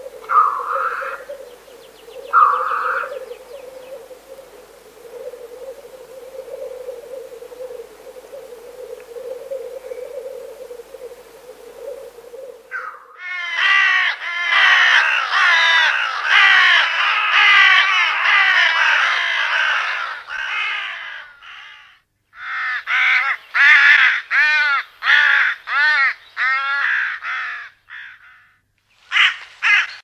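Birds calling in edited recordings. A steady low drone carries two short calls at first. Then, after an abrupt change, comes a dense chorus of harsh calls, followed by a run of about eight loud, separate harsh calls.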